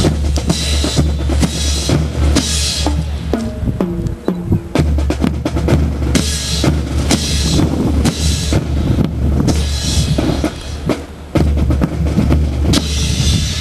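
Marching band percussion playing: snare and bass drums beating quick rhythms, with bright cymbal-like splashes every few seconds.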